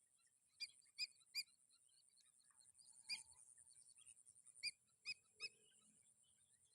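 Faint, short, separate bird chirps from a large flock of small birds, about seven scattered calls, over a steady high hiss.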